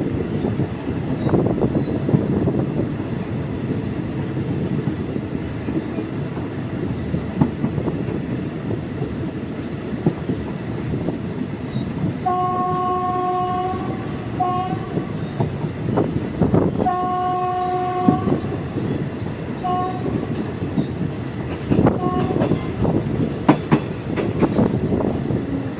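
Passenger train running, a steady rumble with the wheels clicking over rail joints. About halfway through the locomotive's horn sounds a long blast, a short one, another long blast and a short one, with a couple of brief toots a little later.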